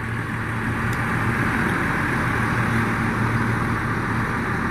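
Twin Mercury outboard engines on a large ski-boat running steadily at low power, a constant low hum that slowly grows louder, over a steady hiss of surf.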